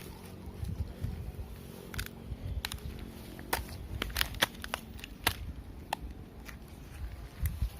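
Dry twigs and leaves crackling and snapping as someone pushes through brush, with a handful of sharp snaps over a low rumble of handling.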